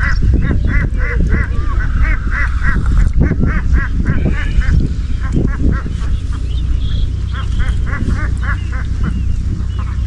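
An animal, most likely a bird, calling in long runs of short, repeated notes, about four a second, over a steady low rumble.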